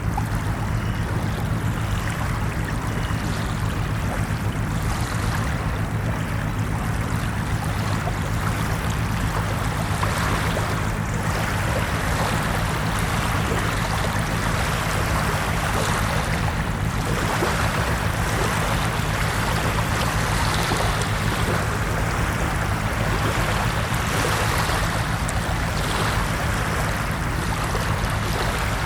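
Ocean waves washing on a shore, a steady rush of surf that swells and fades every several seconds over a constant low rumble.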